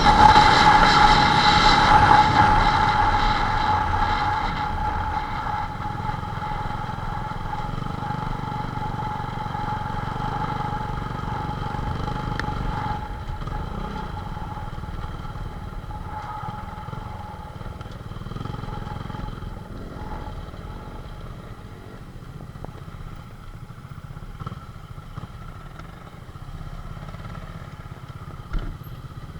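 Motorcycle engines running, loudest at the start and fading over the first several seconds, leaving a lower steady rumble.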